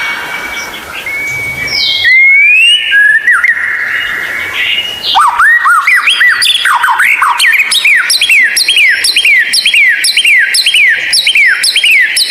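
White-rumped shama (murai batu) singing: long drawn whistles and a rising slide at first, then from about five seconds in a fast run of repeated downward-sweeping notes, two or three a second.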